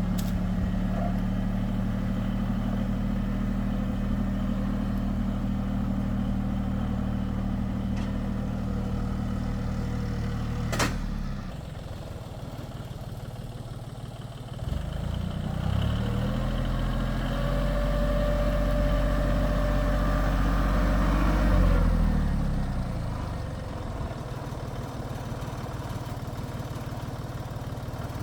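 Tractor engine running steadily, then dropping away after a sharp click about eleven seconds in. A few seconds later an engine speeds up, holds its pitch, then slows down and fades.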